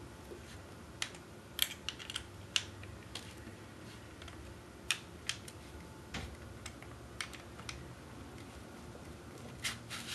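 Light, irregular clicks and taps of plastic ice luge mold parts being handled as its sides are slid off.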